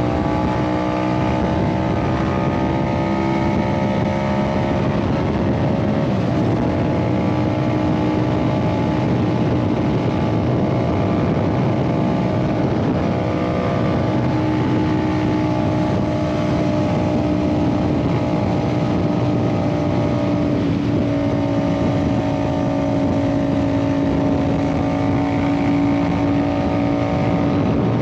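Yamaha MT-07's parallel-twin engine through an aftermarket Ixil exhaust, running steadily under way. Its note shifts about six seconds in and again around twenty-one seconds, as at gear changes.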